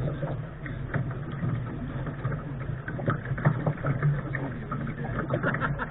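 Sailing dinghy under way: a steady low rumble with scattered small splashes and knocks of water and gear around the hull.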